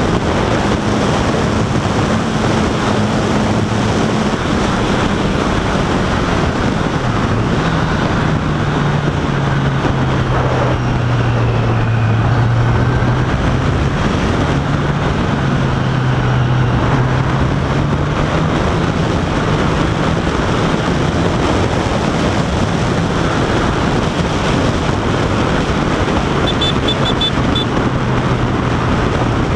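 Honda CBR1000RR Fireblade's inline-four engine running at road speed under heavy wind noise on the microphone. The engine note drops about a third of the way in, holds lower for a while, then climbs again and settles.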